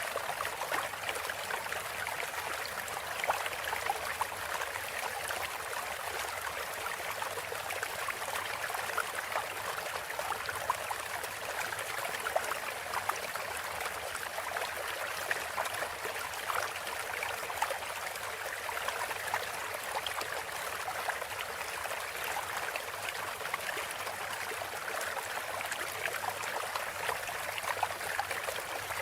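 Steady flowing-water track, a stream trickling and babbling without a break; thin, with almost no low end.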